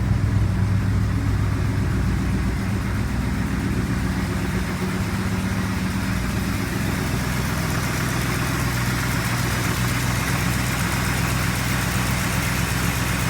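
Old carbureted vehicle engine idling steadily after a cold start, a little louder for the first couple of seconds before settling to an even idle.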